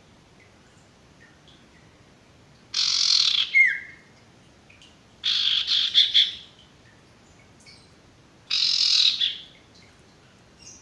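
Sirtu bird calling: three loud, harsh, chattering calls about a second long each, spaced a couple of seconds apart, with faint short chirps between them.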